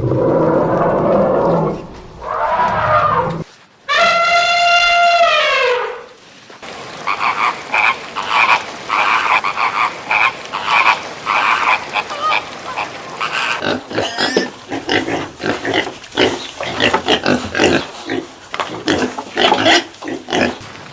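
A string of different animal calls. First come rough, noisy calls, then one long pitched call that falls in pitch about four seconds in, then many short repeated calls and rapid clicking sounds.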